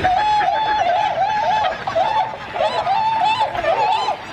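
A flock of Bewick's (tundra) swans calling, many short rising-and-falling calls overlapping without a break.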